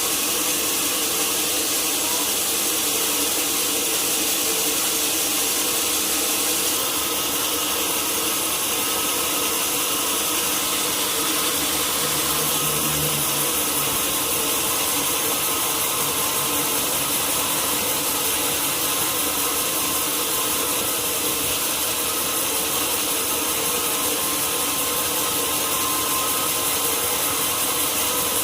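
Sawmill saw cutting steadily through a large log, an unbroken dense whine of blade through wood with no pauses.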